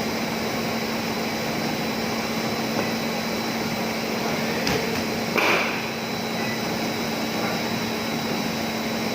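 PP woven-bag cutting machine running with a steady hum and whir, with a single sharp click a little under five seconds in and a brief louder rush about half a second later.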